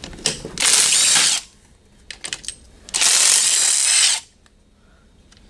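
Handheld power tool running in two short bursts, spinning out engine oil pan bolts, with a few light metallic clicks between the bursts.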